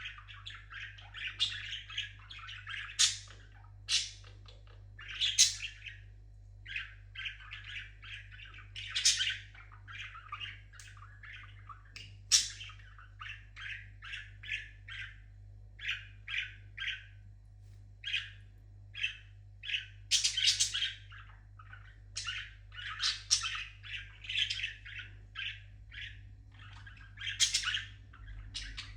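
Pet parrot chirping and singing in a long run of short calls and whistles, broken every few seconds by loud, sharp squawks.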